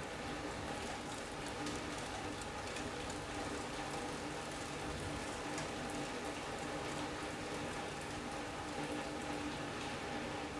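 Steady rain falling on a sunroom's roof and glass: an even patter with many small drop ticks, and a faint steady hum underneath.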